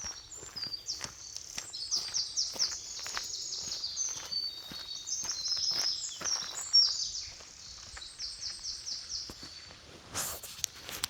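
Songbirds singing, several quick, high trilling phrases overlapping one another, over the ticking of footsteps on a woodland path. A short burst of noise comes near the end.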